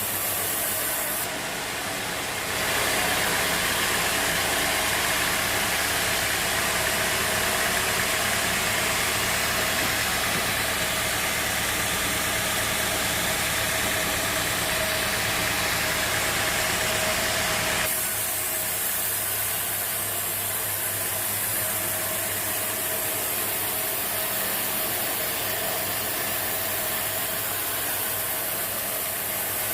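Bandsaw sawmill running steadily with a constant whine. A louder, hissier stretch of sawing noise starts about two seconds in and drops back about eighteen seconds in.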